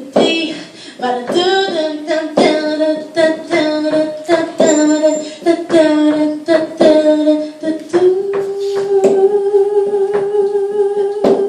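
Woman singing live without words, in short bending notes, then holding one long note from about eight seconds in.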